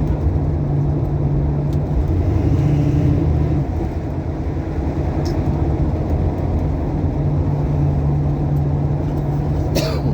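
Classic Ford Mustang Mach 1's V8 running steadily while driving, its pitch rising for about a second and then dropping just before the four-second mark. The exhaust was knocked by work on the rear suspension hangers, and the owner says it has started rattling. There is a sharp click near the end.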